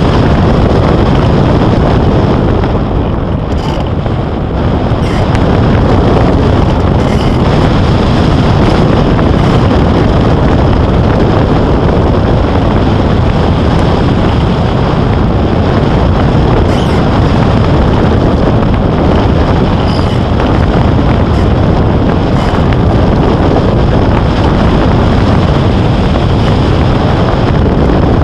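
Loud, steady wind rushing and buffeting the microphone, the airflow of hang-glider flight, easing slightly for a moment about four seconds in.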